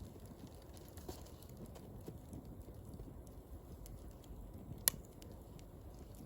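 Wood fire crackling in a fire pit, with scattered small ticks over a low hiss and one sharp pop about five seconds in.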